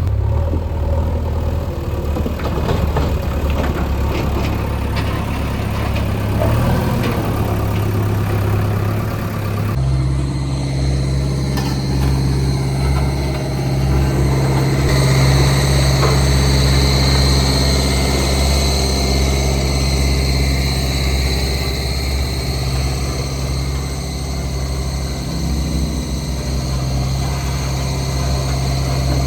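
Diesel engine of heavy construction machinery running steadily at low revs. The engine note changes abruptly about ten seconds in.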